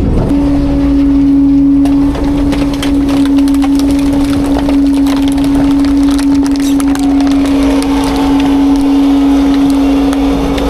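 Autocar-Heil Freedom front-load garbage truck packing its load: a steady, high hydraulic whine under a dense run of cracking and crunching as the refuse is crushed by the packer blade.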